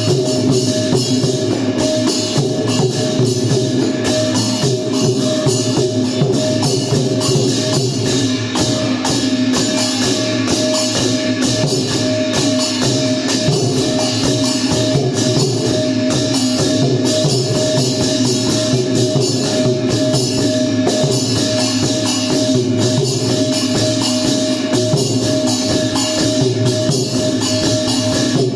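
Traditional Thai klong yao long-drum ensemble playing a steady, dense rhythm, with small hand cymbals jingling throughout and a steady held tone running over it.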